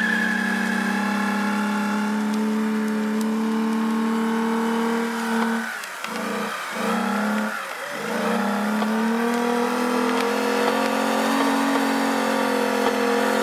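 Volkswagen VR6 engine held at high revs during a front-wheel burnout. The revs dip sharply twice about halfway through, then climb back and hold steady.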